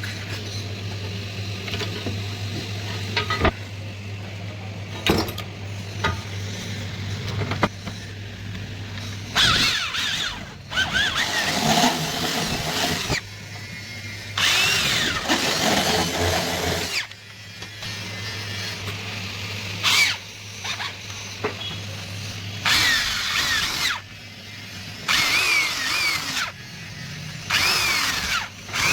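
Handheld electric drill drilling into an aluminium door profile in repeated short bursts, its motor pitch rising and falling with each run. Sharp clicks and taps come first, before the drilling starts about nine seconds in.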